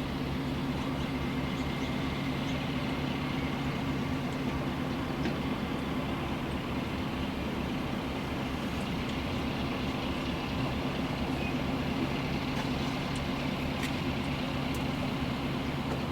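Train running steadily: a continuous rumble with a steady engine drone, without a break and with a few faint clicks.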